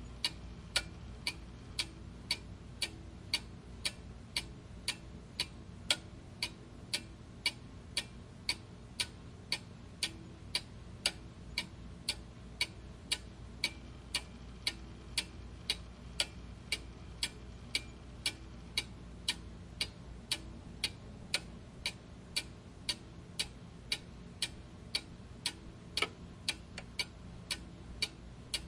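Clock ticking steadily, a little more than two ticks a second, over a faint low background hum.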